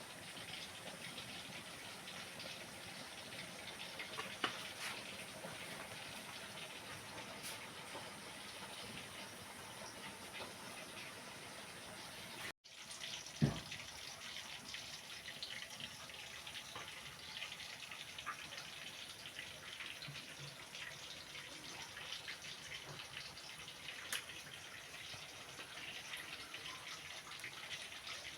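Water running steadily, with small splashes and ticks, in the manner of a tap running into a sink. There is a brief cut in the sound about twelve seconds in, followed by one low thump.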